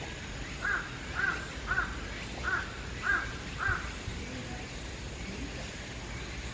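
A crow cawing six times in a row, about one caw every half second, stopping a little under four seconds in.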